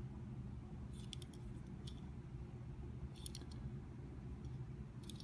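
Faint light clicks and taps from a small die-cast metal toy car being handled, in a few short clusters about a second, two, three and five seconds in, over a low steady hum.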